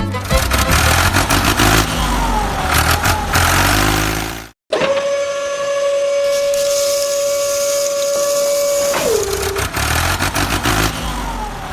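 A vehicle motor running with a rumble, cutting out briefly, then a steady high whine for about four seconds that slides down in pitch as it stops, before the rumble resumes.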